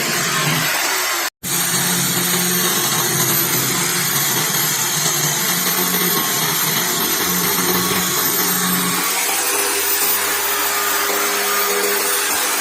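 An electric woodworking power tool running steadily, with a loud, even whirring noise that drops out for an instant about a second in.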